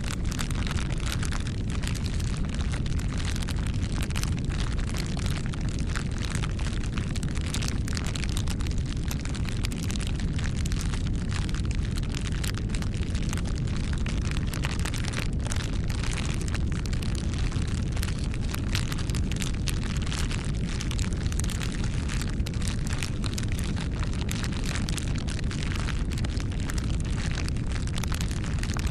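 Campfire burning, a steady low rumble with frequent sharp crackles and pops from the burning wood.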